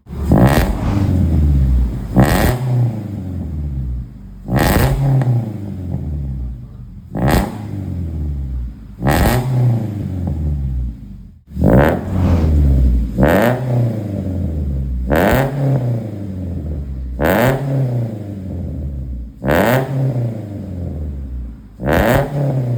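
Mitsubishi Xpander's four-cylinder petrol engine revved in short blips through an aftermarket full-system exhaust with a 4-2-1 header, resonator and Pro-Street muffler. The blips come about once every two seconds, each rising sharply and falling back toward idle.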